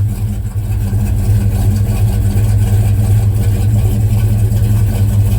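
A 454 big-block V8 in a 1984 K20 truck, idling steadily through Hedman headers, a 3-inch exhaust and Flowmaster Super 10 mufflers while it warms up.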